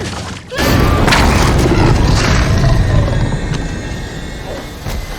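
Film sound effects and score: a sudden loud boom about half a second in, followed by a dense rumbling crash that slowly fades, with music underneath.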